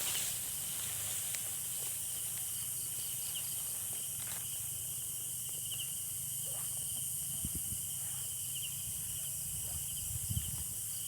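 Night insects calling: a steady, shrill high hiss with a chirping trill that repeats over and over. A few soft low thumps come near the end.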